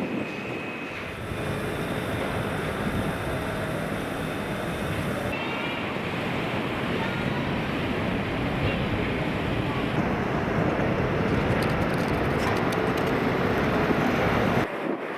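Strong wind blowing over the camcorder microphone, a continuous rushing noise with a deep rumble, over city street sound with traffic. The noise changes abruptly about a second in, about five seconds in and again near the end.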